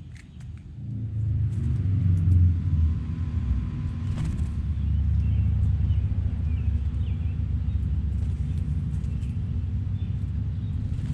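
Low, steady rumble that swells up about a second in, with faint bird chirps above it.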